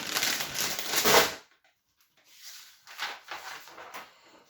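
Packaging crinkling and rustling as it is handled while the puzzle box is unpacked: loud for about the first second and a half, then fainter scattered rustles.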